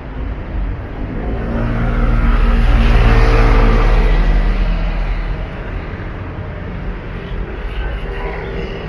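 A motor vehicle passing close by: its engine and road noise swell, peak about three to four seconds in, then fade away, with the engine note dropping slightly as it passes.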